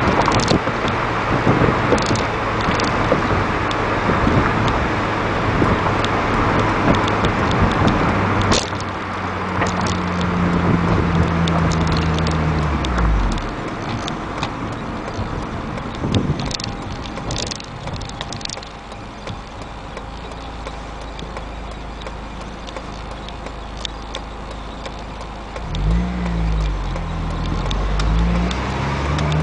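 Acura CSX Type-S's K20 four-cylinder engine on the move, with road noise. The engine holds a steady note that falls away about a third of the way in, runs low and quieter through the middle, then climbs in revs again near the end, with a brief dip as it shifts.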